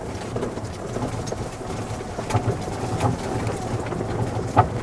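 Golf cart driving over rough ground: a steady low hum with crackling and scattered small rattles and knocks from the tyres and body.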